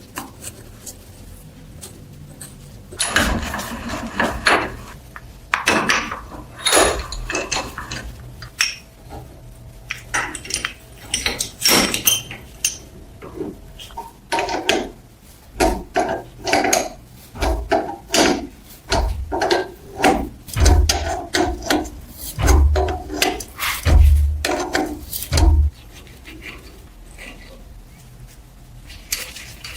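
Irregular clinks, knocks and short scrapes of metal parts and hand tools being worked at a workbench, with a few heavier thumps near the end.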